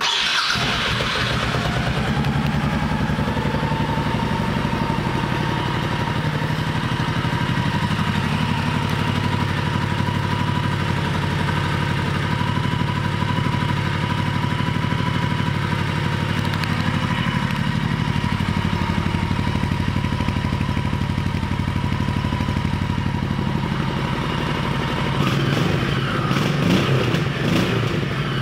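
Honda Shadow Sabre 1100's V-twin engine starts, then runs at a steady idle. It is revved a few times near the end.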